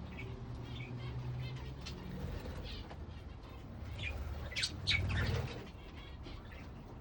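Flock of wild-type budgerigars chattering with many short high chirps. About five seconds in there is a louder, brief burst of noise, the loudest moment.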